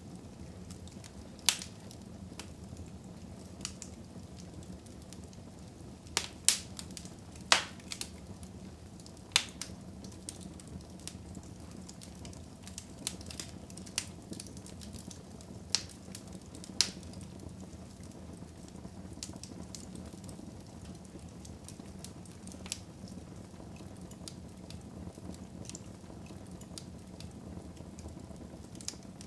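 Wood fire burning in a fireplace: a steady low rush of flame with sharp, irregular crackles and pops, several close together about six to eight seconds in.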